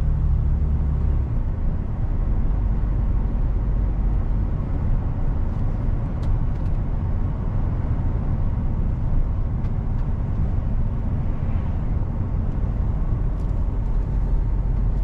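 Mercedes-Benz Actros truck's diesel engine running with steady road and tyre noise while driving. The deep engine note drops back about a second in. A few faint ticks come through over the rumble.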